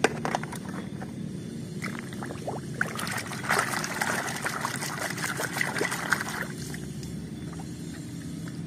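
A hand swishing and splashing through a plastic tub of muddy water, washing toys, busiest from about three seconds in to past the middle. Plastic toy cars clack against one another in the first few seconds, over a steady low hum.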